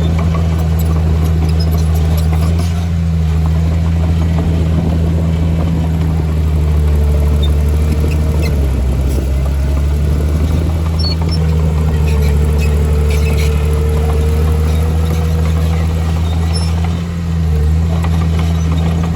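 Diesel engine of heavy earthmoving machinery running steadily and hard, with a faint whine that drifts in pitch and scattered light clanks. The loudness dips briefly near the end.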